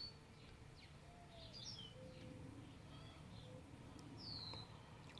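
Small birds chirping faintly and intermittently: short, high calls scattered throughout, with one clearer downward-sweeping call about four seconds in, over a low background hum.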